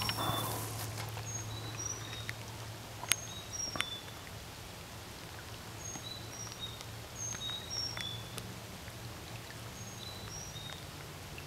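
A songbird singing phrases of three or four short high whistled notes that step down in pitch, repeated several times with pauses between phrases, over a low steady hum. A few sharp ticks, the clearest about three seconds in, and a brief rush of noise right at the start.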